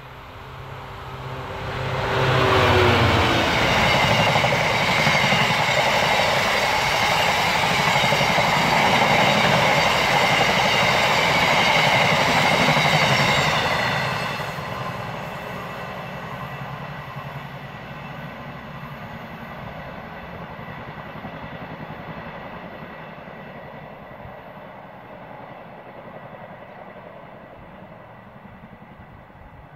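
Train passing at speed: the pitch of its machinery drops as the front goes by about two seconds in, loud wheel-and-rail noise runs until about fourteen seconds, then the sound fades away as the train recedes.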